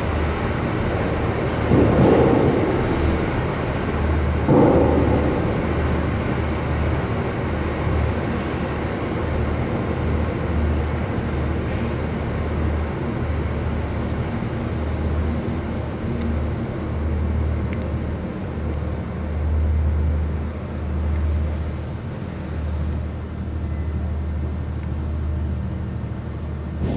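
Train running through a tunnel, heard from on board: a steady low rumble with wheel-on-rail noise, and two louder surges about two and four and a half seconds in.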